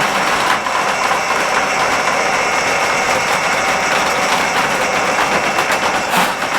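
Electric drain snake running steadily, its motor and spinning cable giving a loud, even mechanical drone with a fast rattle.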